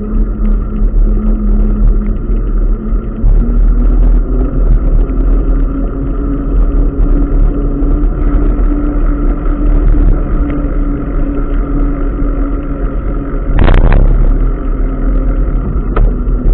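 Steady low rumble of road traffic and wind, with a humming engine tone throughout. A brief louder rushing sound comes about 14 seconds in, and a sharp click near the end.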